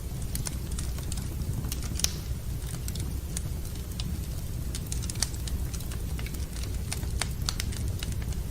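Fire in a fireplace crackling, with irregular sharp snaps and pops over a steady low rumble; one louder pop about two seconds in.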